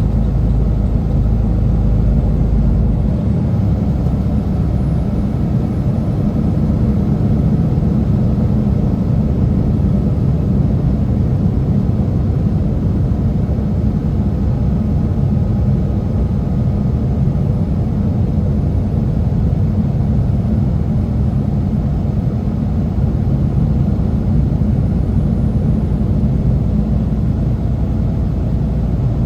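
Semi truck's engine and road noise: a steady low rumble.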